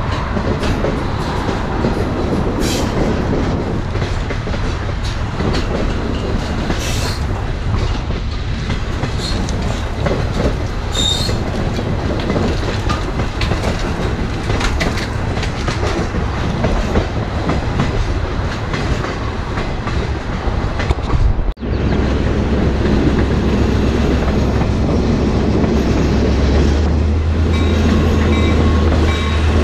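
Railroad caboose rolling along the track: a continuous rumble and rattle of the car with clatter from the wheels over the rails, and a brief high wheel squeal about eleven seconds in. About two-thirds through the sound drops out abruptly for an instant and resumes as a steadier low drone, with faint thin squealing tones near the end.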